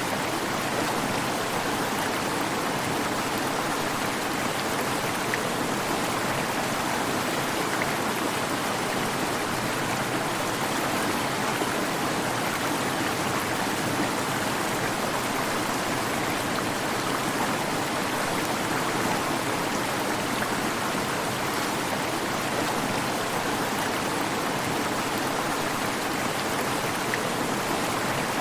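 Waterfall: falling water splashing and rushing steadily, without a break.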